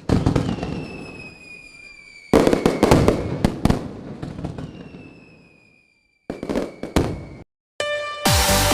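Fireworks bursts: three sudden bangs with crackling pops and falling whistles, each dying away, cut off abruptly; electronic music starts near the end.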